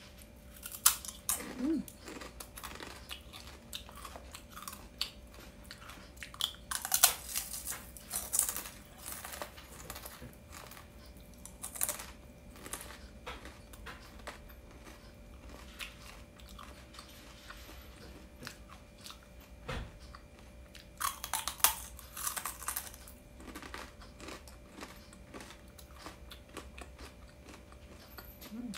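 Dried okra being bitten and chewed: crisp, dry crunching that comes in several dense bursts, with quieter chewing between them.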